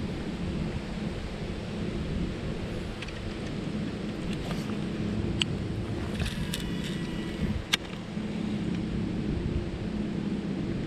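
Wind buffeting the microphone: a steady low rumble. A few sharp clicks come in the middle.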